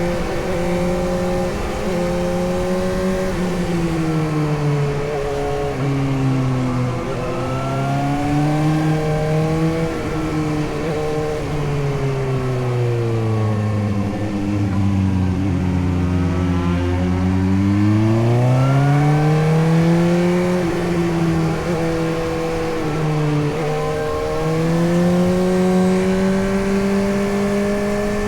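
Suzuki GSX-S750 inline-four engine under way. Its revs fall in steps for about twelve seconds as the bike slows, bottom out, then climb as it accelerates hard, and settle higher with a brief dip near the end.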